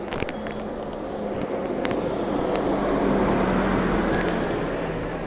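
A motor vehicle passing close by: its engine hum grows louder to a peak about three seconds in, then fades away. A few sharp clicks come just at the start.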